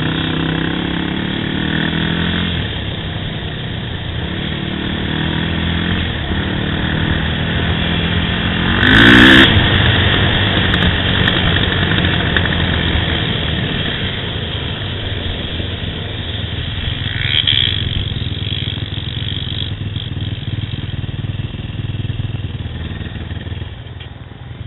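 Yamaha YFZ quad's engine running under throttle, the revs rising and falling as it rides, with a loud rising rev about nine seconds in.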